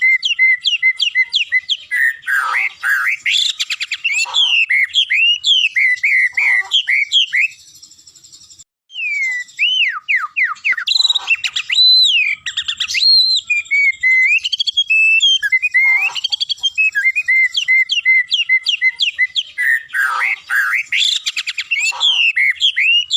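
White-rumped shama (murai batu) singing a continuous run of varied, fast whistled phrases that swoop up and down, with a short pause about eight seconds in.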